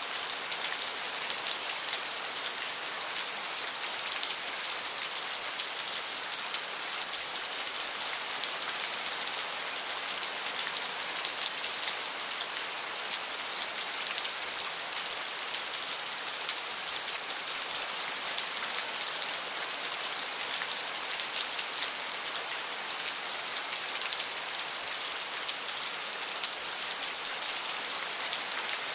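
Steady rain falling: an even, dense hiss of drops that holds unchanged throughout.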